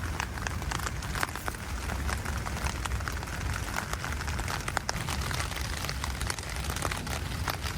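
Light rain on a tent, heard from inside: many separate drops tapping on the fabric over a steady low rumble.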